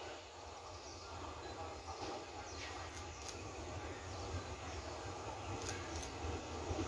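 Taiwan Railway electric multiple-unit local train approaching the platform: a low rumble from its wheels and running gear grows gradually louder as it draws in, with a few faint clicks.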